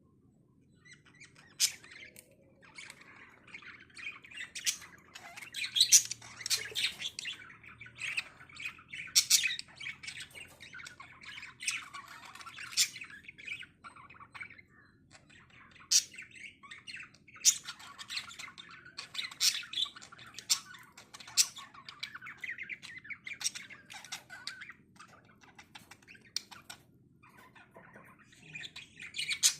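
Lovebirds chattering with frequent sharp, high squawks, in irregular clusters with short pauses between, over a faint steady low hum.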